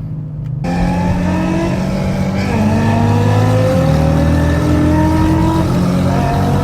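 Infiniti Q60 with full bolt-on modifications, engine and exhaust running under way, pitch slowly rising as the car accelerates, with a change in note about four seconds in.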